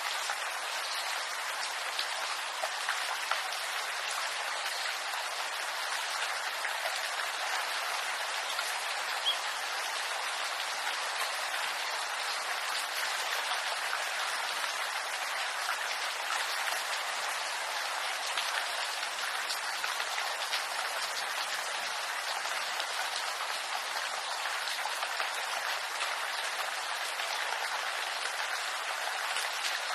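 Steady rain falling on bamboo leaves: a dense, even patter of countless drops with occasional sharper individual drop taps.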